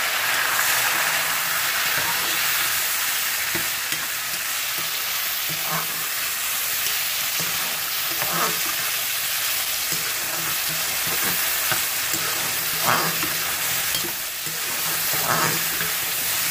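Chopped tomatoes and golden fried onions sizzling in hot oil in a metal pot, stirred with a metal slotted spoon that scrapes the pan several times.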